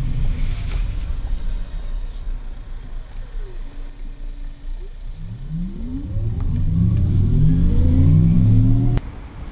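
Audi R8 e-tron's synthesized electric-drive sound, its pitch falling as the car slows, then rising steadily as it accelerates, before cutting off suddenly near the end.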